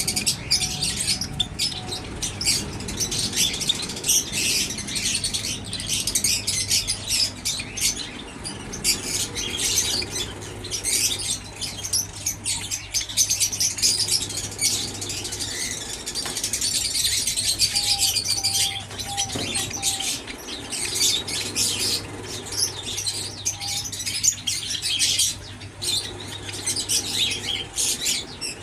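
A flock of Java sparrows chirping continuously, many short high-pitched calls overlapping. A steady low hum runs underneath for most of it.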